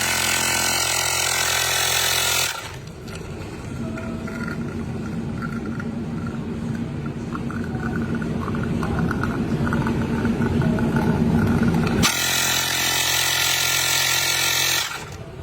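Pneumatic espresso machine brewing: a loud hiss for about two and a half seconds, then a rattling mechanical hum that slowly grows louder, then another loud hiss starting about twelve seconds in and stopping shortly before the end.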